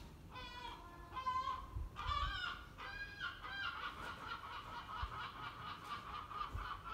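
A bird calling: several short calls in the first three seconds, then one longer, rough, wavering call of about three seconds near the end.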